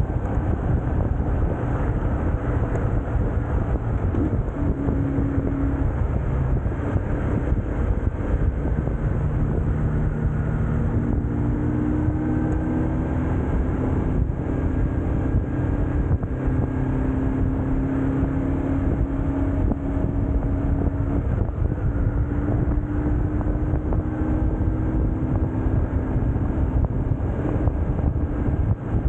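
BMW R1150GS Adventure riding along steadily, its boxer-twin engine note mixed with heavy wind and road rumble on the microphone. Humming engine tones come and go and shift slightly in pitch throughout.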